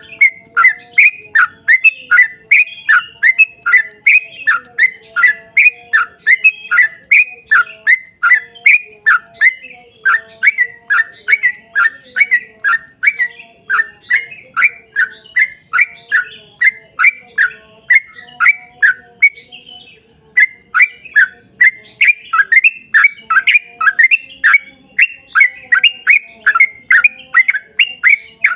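Yellow-vented bulbul (trucukan) singing a long, rapid run of short, falling whistled notes, about two and a half a second, with one brief break about two-thirds of the way through.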